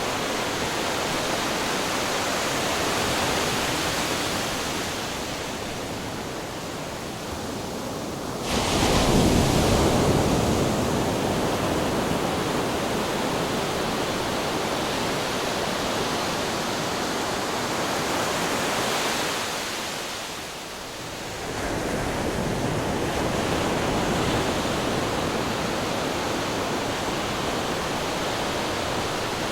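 Ocean waves crashing on rocks: a continuous rushing surf with one sudden, loud wave crash about eight seconds in. It dies down briefly around twenty seconds, then the wash surges up again.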